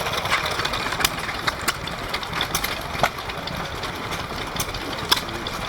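Vintage stationary engines running, a steady mechanical din with sharp clicks at irregular intervals.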